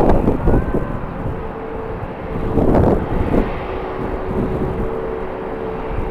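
Strong wind buffeting the microphone in gusts, with a distant jet airliner's engines running underneath as a steady tone that holds from about a second in until near the end.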